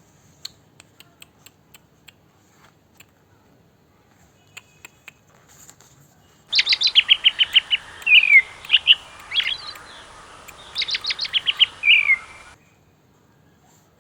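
Songbird singing, dropped in as a sound clip that starts and cuts off abruptly: two phrases, each a rapid run of sharp repeated notes followed by a falling slurred note. Before it, a few faint light clicks.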